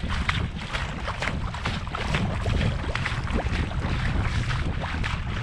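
Wind rumbling on the microphone, with frequent short clicks and crackles throughout.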